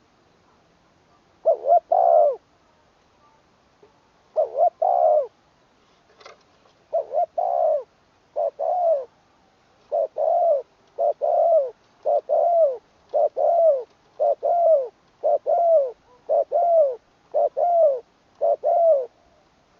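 Spotted dove cooing: about a dozen short, low, two- or three-part coo phrases, spaced out at first and then repeated steadily, roughly one a second, through the second half.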